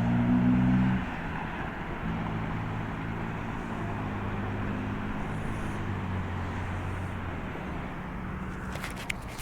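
Jet airliner engines running at a distance: a steady rumble with a low hum that is loudest in the first second and then holds even. A few sharp clicks come near the end.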